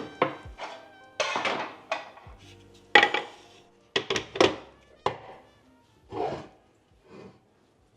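Dishes and kitchenware being handled: a string of separate clinks and knocks, hard items set down and touching, over soft background music.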